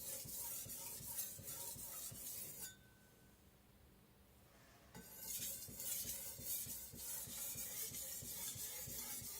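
Steel cleaver edge stroked back and forth on a wet whetstone: a scratchy rubbing repeated stroke after stroke. The strokes pause for about two seconds midway, then start again.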